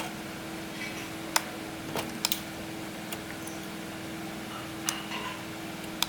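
Scattered sharp clicks and taps of small tools and parts being handled during electronics repair work, about six over the few seconds, over a steady low hum.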